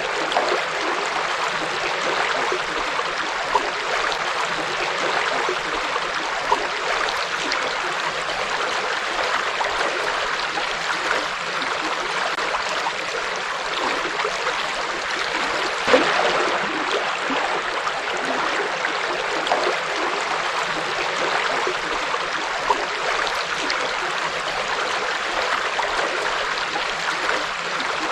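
River water flowing over stones in a steady rush, with small splashes and gurgles now and then.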